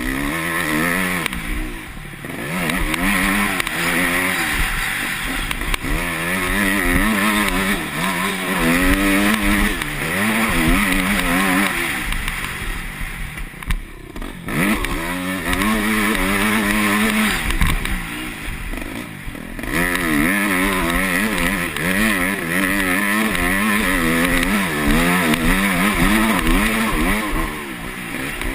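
Yamaha YZ250F's single-cylinder four-stroke engine revving up and down constantly as the motocross bike is ridden on the track, the throttle shut off briefly three times.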